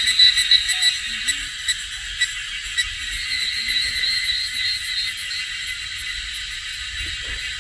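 Steady, shrill chorus of insects singing, pulsing rapidly and loudest in the first few seconds, then settling into an even drone.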